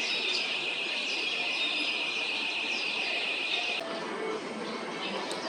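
Small birds chirping over a steady high-pitched buzz, which cuts off suddenly about four seconds in.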